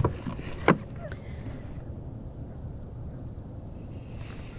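Two sharp knocks near the start, about two-thirds of a second apart, from handling a large fish and measuring board on a kayak, over a low steady rumble.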